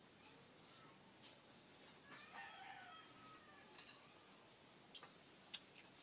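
Quiet eating sounds: sharp mouth clicks and lip smacks while chewing food eaten by hand, the loudest near the end. A faint pitched call sounds in the background about two seconds in.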